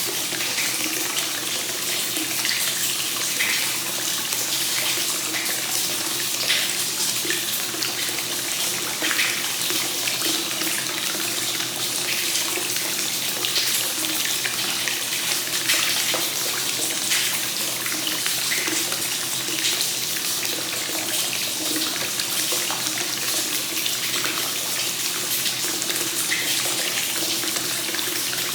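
Hot spring water flowing continuously into a bath straight from the source, a steady splashing pour with small scattered droplet splashes.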